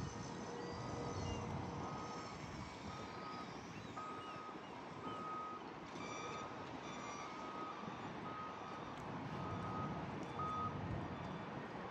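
A vehicle's reversing alarm beeping, one steady tone about twice a second, which stops shortly before the end, over a constant rumble of traffic.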